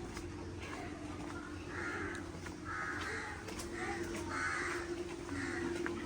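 A crow cawing over and over, a string of about five harsh caws starting about two seconds in, with a steady low hum underneath.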